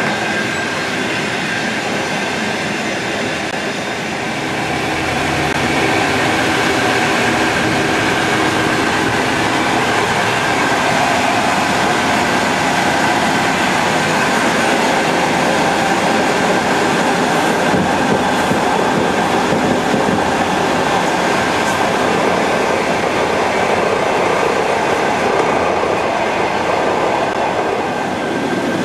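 Passenger train running, heard from inside the carriage: a steady rumble of wheels on the track that grows louder about five seconds in.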